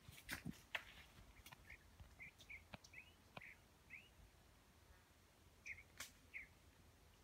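Faint, short bird chirps repeated every half second or so, with a few sharp clicks or snaps, the loudest in the first second and one about six seconds in.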